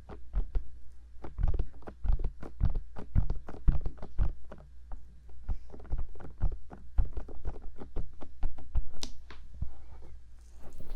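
Fingertips tapping on the ears of a 3Dio binaural microphone: a fast, uneven run of soft taps and dull thumps, several a second.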